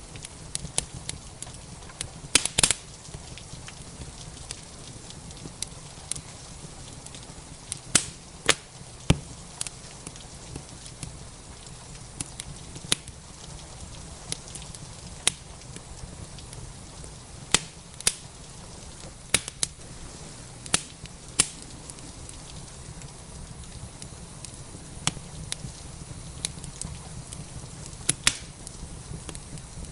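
Wood fire crackling in a fireplace: sharp pops at irregular intervals, a few of them louder, over a steady hiss of rain.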